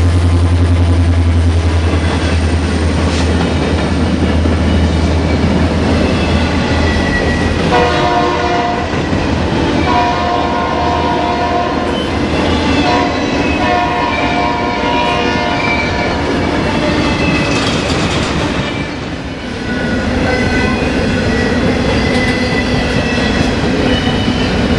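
A Union Pacific freight train passing close by. The low engine drone of a trailing EMD SD70M diesel locomotive fades after about 13 s, while empty intermodal well cars roll past with steady wheel rumble and clatter. Between about 8 and 17 s there are intermittent high squealing tones from the wheels.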